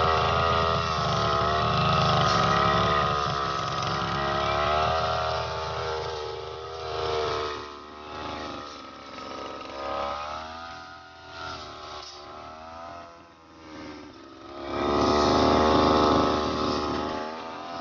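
Small-engine brush cutter (grass-cutting machine) running, its engine pitch rising and falling as the throttle is worked while cutting grass. It is loud at first, drops back and wavers through the middle, then runs loud again near the end.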